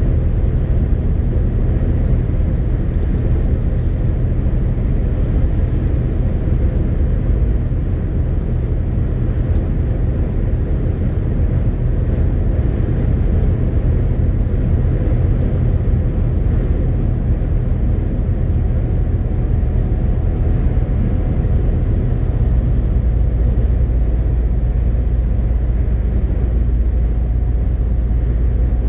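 MAN TGX 18.520 truck's 12.4-litre straight-six diesel running steadily while driving, over an even rush of road noise. About three-quarters of the way through, the low engine note shifts and gets stronger, as with a change in engine speed.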